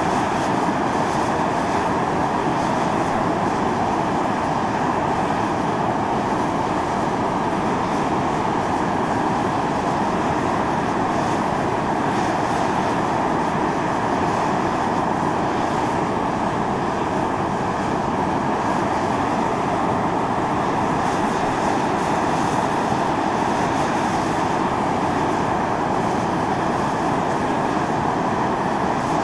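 Volcanic fumarole on Mt. Io venting steam and sulfurous gas: a steady, loud hissing rush that doesn't change.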